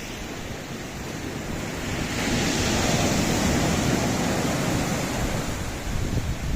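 Sea waves breaking on a rocky shore: a steady rush of surf that swells about two seconds in and then slowly eases. Wind is on the microphone.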